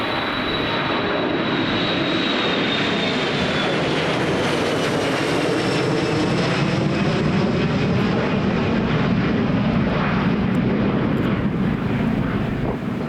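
Boeing 737-300's CFM56-3 jet engines at high power as the airliner passes, a steady loud jet noise with a high fan whine that slowly falls in pitch.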